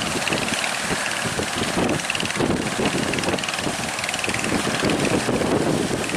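Fishing boat engine running steadily at sea, with wind noise on the microphone.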